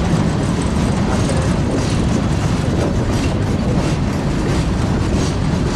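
Freight train of boxcars rolling past close by: a steady rumble of steel wheels on the rails with a rhythmic clickety-clack.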